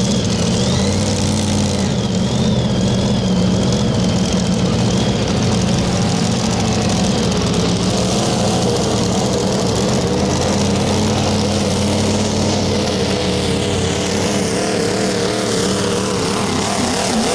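Diesel pickup truck engine under heavy load in a Limited Pro Stock pulling run, running loud and steady, with a high whine that falls in pitch near the end.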